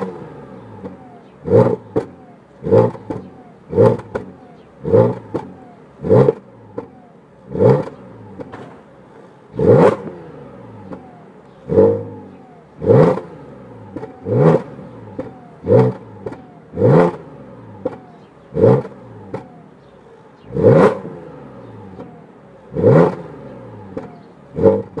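Audi S5 3.0 TFSI supercharged V6, running an APR ECU tune and supercharger pulley, revved in about twenty short throttle blips at uneven intervals of one to two seconds. Each blip is a quick rise in pitch that drops straight back to idle.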